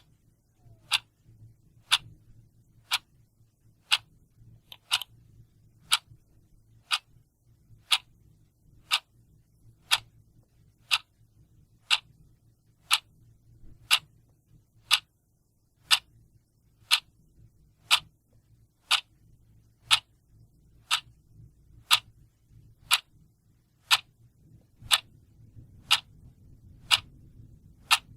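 Clock ticking steadily, one sharp, even tick every second.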